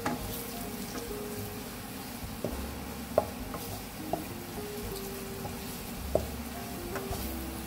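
Sliced onions and ground masala sizzling in hot oil in a nonstick frying pan while being stirred with a wooden spatula, which knocks sharply against the pan several times.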